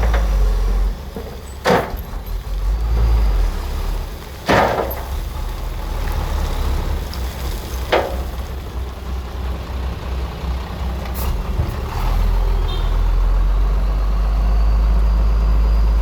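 Bulldozer's diesel engine rumbling as it works, with three sharp knocks in the first eight seconds; from about twelve seconds in the engine runs louder and steady.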